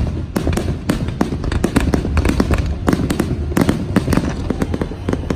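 Fireworks going off in a rapid, irregular barrage of sharp bangs and crackles, several a second, over a steady low rumble.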